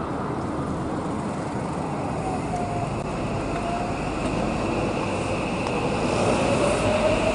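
Electric train running, heard from on board, its motor whine slowly rising in pitch as it gathers speed.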